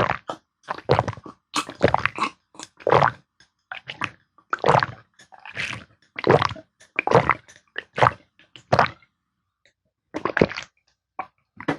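Close-miked wet eating sounds: a person chewing and swallowing mouthfuls of spicy beef soup and smoked duck, a run of squishy, wet mouth sounds about once or twice a second, with a short pause near the end.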